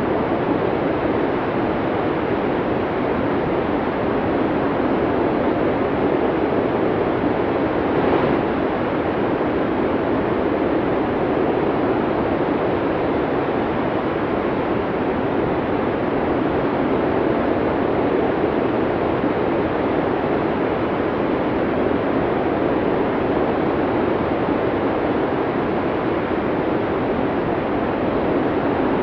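Strong snowstorm wind blowing steadily, a dense even rush with no separate events.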